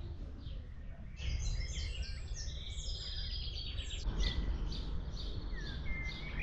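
Birds singing: about a second in, a fast, dense run of high chirps lasts a few seconds, then thins to scattered single chirps, over a steady low rumble.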